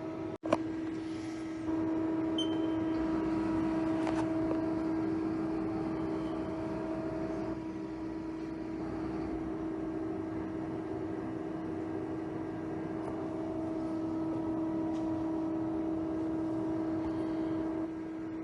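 Haas ST40 CNC lathe running, with a steady whine that gets louder about two seconds in and drops back shortly before the end. There is a sharp click about half a second in and a short high beep soon after.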